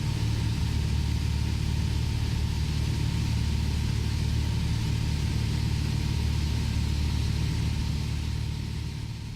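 Jet boat's inboard engine running steadily: a deep rumble under a high hiss, fading out near the end.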